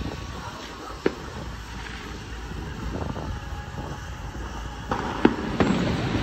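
Sharp bangs over a steady background noise: a single one about a second in, and two louder ones close together near the end.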